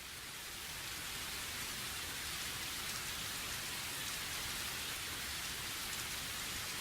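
Steady rain falling, a dense even hiss of drops, swelling up during the first second and then holding level.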